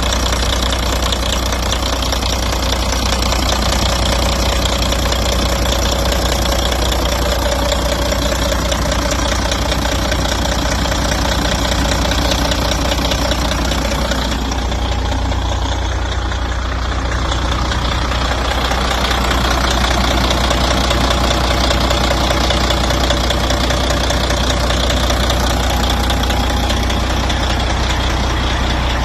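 Engine of a 1988 Freightliner FC60 truck idling steadily, with a brief change in tone about halfway through.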